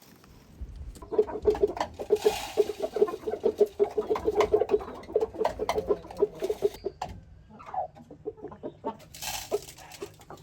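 Domestic chickens clucking in rapid runs of short clucks from about a second in, thinning out near the end into a few sparser calls that slide in pitch.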